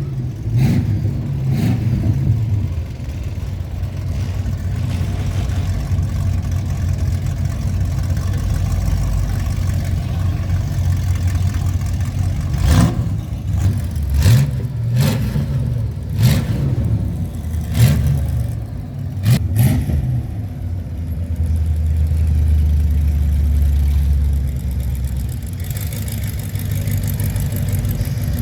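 Classic car engines rumbling and revving as cars go by, with several rising revs and a few short sharp cracks in the middle, then a steadier low engine drone near the end.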